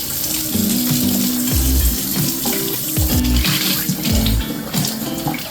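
Kitchen tap running water into a sink, under background music with a steady beat.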